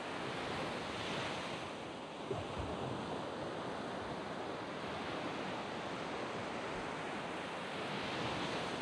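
Waves breaking and washing up a sand beach, a steady rush of surf that swells about a second in and again near the end, with a small low thump a little over two seconds in.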